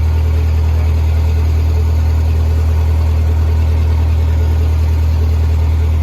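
Lincoln SA-200 engine-driven welder's engine running at a steady speed, a loud even hum with a strong low tone that does not change.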